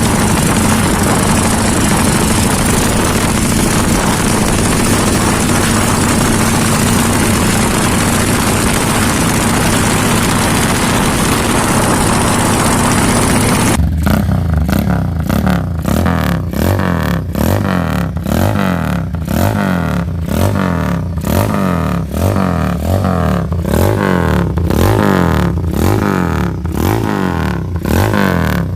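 Motorcycle engine with an aftermarket Fanttera racing exhaust running loud and steady. About halfway through, the sound switches abruptly to a motorcycle being revved over and over, its exhaust note choppy and pulsing with pitch rising and falling on each blip: the 'helikopter' exhaust sound.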